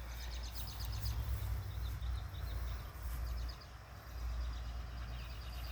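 Birds chirping faintly in quick repeated trills, several short runs, over a low steady rumble.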